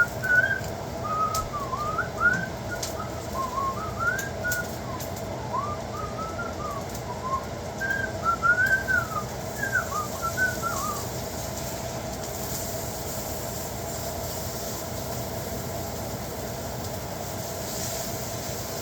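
A person whistling a wandering tune in short rising and falling phrases, which stops about eleven seconds in, over the steady hum of a kitchen fan. The fan runs on alone after that.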